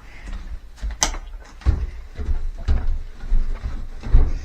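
Irregular knocks, clicks and low thumps, about a dozen, of objects being handled and set down.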